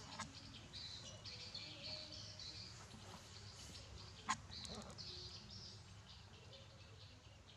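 Small birds chirping in the background, with one sharp click a little over four seconds in.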